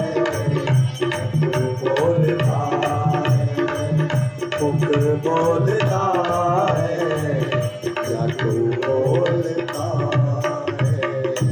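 Instrumental bhajan music: tabla keeping a steady rhythm under a wavering melodic instrument line.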